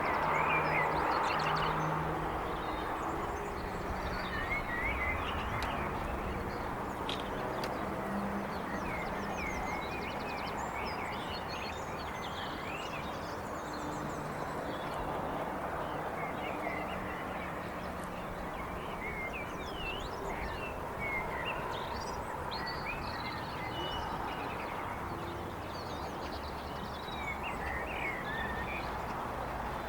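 Several small birds chirping and trilling in short, scattered calls over a steady background wash of distant suburban traffic noise, which is a little louder in the first couple of seconds.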